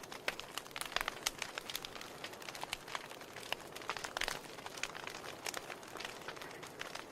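Wood fire crackling in a fireplace: burning logs snapping and popping irregularly, several pops a second, over a soft steady hiss of the flames.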